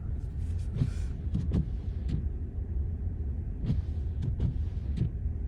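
Car driving on snowy roads, heard from inside the cabin: a steady low road rumble with scattered light knocks and bumps.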